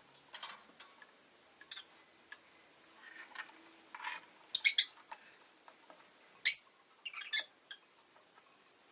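Peach-faced lovebird chirping in short, sharp calls: a few faint chirps, then a quick run of three loud ones about halfway through, and a single loud call about two seconds later followed by a few softer chirps.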